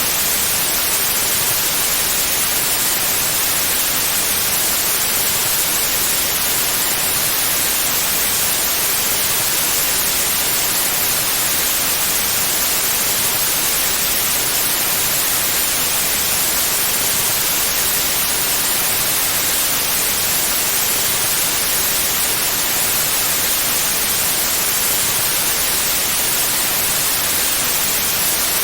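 Pure white noise: a steady, even hiss across the whole frequency range, unchanging throughout.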